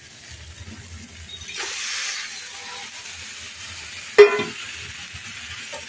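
Marinated raw chicken pieces going into hot fried onion-and-spice masala in a kadai, sizzling, with the sizzle swelling about a second and a half in. A single sharp clank about four seconds in is the loudest sound.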